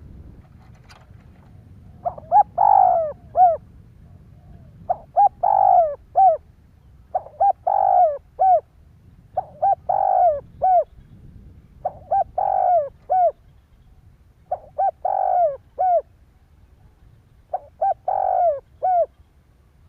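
Spotted dove cooing. It gives seven repeated phrases, one about every two and a half seconds. Each phrase is two short notes, a longer loud coo and a short closing note.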